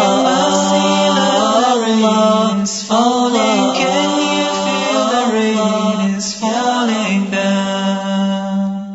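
A cappella nasheed singing: layered voices chant melodic phrases over a steady low held drone. The voices fade away near the end.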